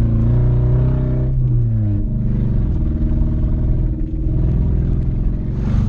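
1996 Toyota Celica's four-cylinder engine running as the car is driven. Its note falls in pitch between about one and two seconds in, then holds steady. The engine is apparently not firing on all four cylinders.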